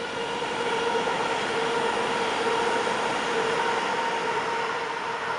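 Shore Line East M8 electric multiple-unit train running around a curve toward the listener: a steady rushing rumble with a steady high whine, growing louder in the first second and then holding.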